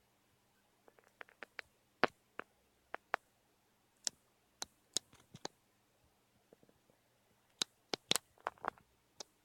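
Irregular sharp clicks and taps from pet birds, a few at a time with short pauses, with a quicker cluster a little before the end.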